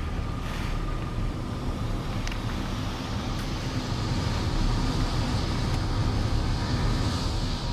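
Typhoon wind blowing steadily with a heavy low rumble, growing a little stronger about halfway through.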